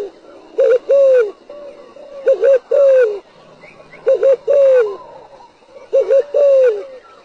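Spotted dove cooing in four repeated phrases, about one every two seconds. Each phrase is a quick pair of short coos followed by a longer coo that falls in pitch.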